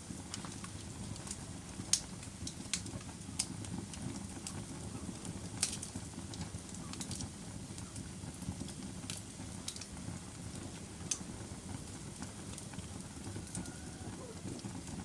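Wood fire burning in a fireplace: a steady low rumble of flames with irregular sharp crackles and pops, the loudest pops about two and five and a half seconds in.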